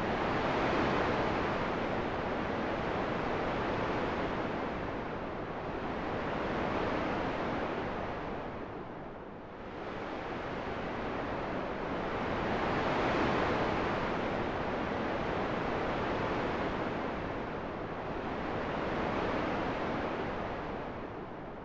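Steady rushing wind noise that swells and eases in slow surges, with a brief lull about nine seconds in and another near the end.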